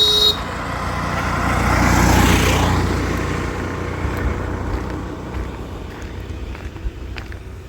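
A vehicle horn ends its honk just after the start. Then a motor vehicle passes close by, rising to its loudest about two seconds in and fading away.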